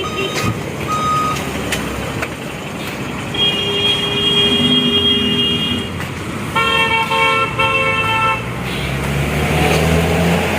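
Road traffic with vehicle horns: a reversing beeper sounds twice at the start, a long horn blast comes about three seconds in, then three short honks follow, and a heavy engine rumbles louder near the end.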